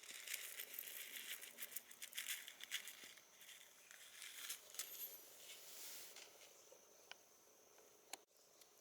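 Dry rustling and crackling for about six seconds, then a few separate clicks, over a faint steady insect drone.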